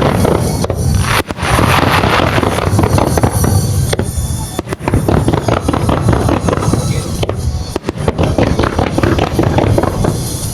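Fireworks display, a rapid barrage of overlapping bangs and crackles, with music played for the show underneath.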